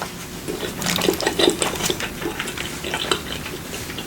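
A person chewing food close to the microphone, with many small clicks and crackles.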